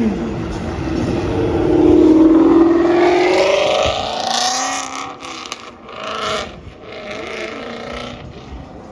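A car accelerating hard, its engine note climbing steadily in pitch and loudest about two seconds in, then fading as it pulls away, with a few shorter rises of revving afterwards.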